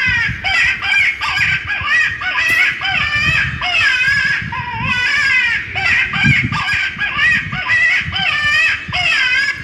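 Electronic bird repeller broadcasting recorded bird calls through its loudspeaker: an unbroken run of loud calls, one after another, each bending up and down in pitch. The device is a bit noisy.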